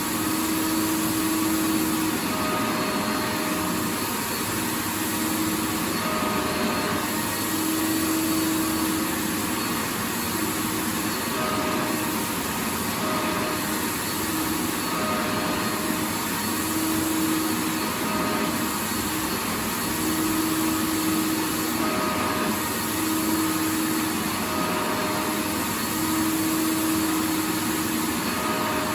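Vacuum cleaner motor running steadily: a continuous rushing noise with a low hum that drops in and out every second or two.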